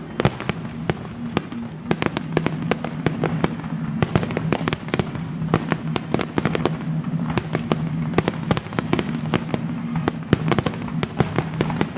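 Fireworks going off in a rapid, continuous barrage of sharp bangs and crackles, several a second, with music playing steadily underneath.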